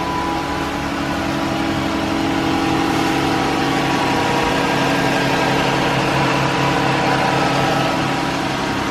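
2013 Chrysler 300's 3.6-litre V6 engine idling steadily after a rocker arm replacement. The loud ticking has quieted tremendously, with only a little ticking left.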